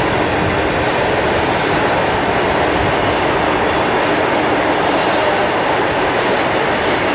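Burlington Northern freight cars rolling past on a girder bridge: a steady rumble of steel wheels on rail.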